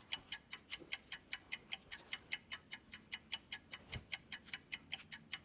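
Rapid, evenly spaced ticking, about six to seven sharp ticks a second, like a clock or timer.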